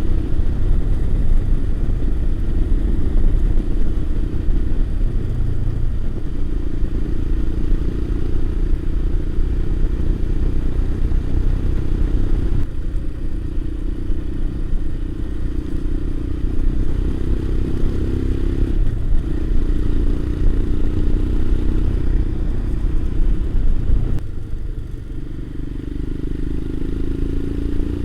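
Motorcycle engine running while riding along, over a heavy low rumble. The engine note shifts in pitch a few times, and the level drops a little at about 24 seconds as the throttle eases.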